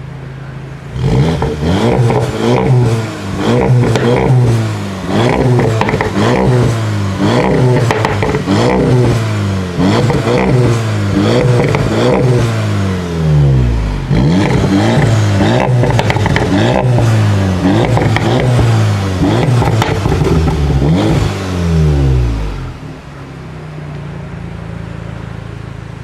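Volkswagen Golf R's 2-litre turbocharged four-cylinder engine with Akrapovič exhaust, revved hard over and over while standing. Each rev rises and falls about every second and a half. It settles back to a steady idle near the end.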